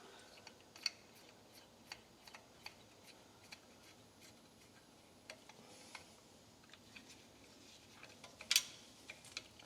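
Faint, scattered clicks and light metallic taps from a small screwdriver on the carburetor's idle screw and small engine parts being handled, with the sharpest tap about eight and a half seconds in.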